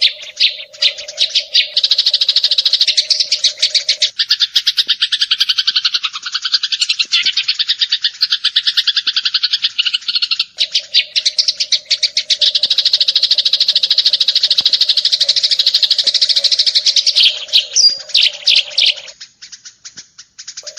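Eurasian tree sparrows chirping in a loud, rapid, unbroken stream of sharp chirps, thinning to scattered chirps near the end.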